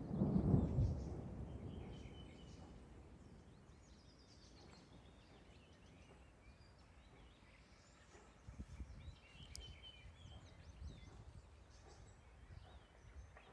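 Thunder rumbling low, loudest about half a second in and fading over the next few seconds. Small birds chirp throughout.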